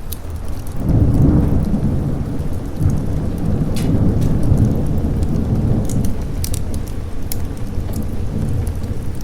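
Rolling thunder, a low rumble that swells about a second in and carries on under steady rain, with scattered sharp crackles.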